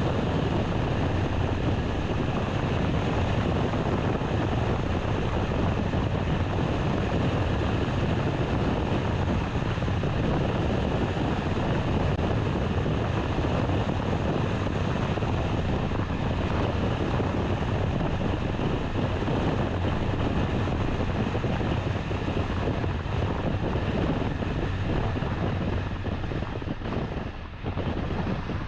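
Car driving: a steady rush of road and engine noise, with a brief dip in level near the end.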